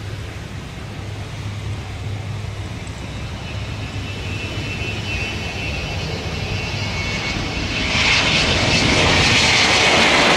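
Airplane engine sound, a steady engine noise with a high whine that grows steadily louder and jumps up sharply about eight seconds in.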